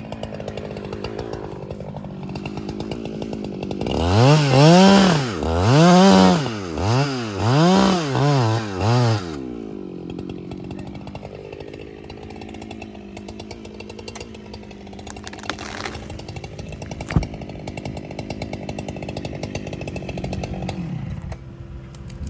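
Two-stroke chainsaw idling, then revved up and down about five times in quick succession before dropping back to idle. A single sharp click near the end.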